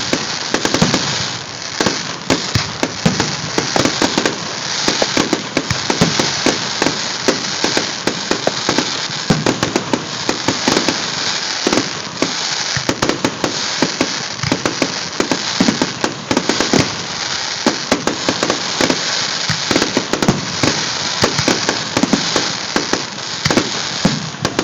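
Fireworks display: a dense, continuous run of bangs and crackling, several reports a second with no pause, recorded on a phone's microphone.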